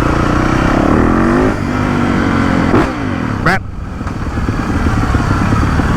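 Dirt bike engine running under throttle, revving up and easing off repeatedly, with two short sharp blips in pitch around the middle.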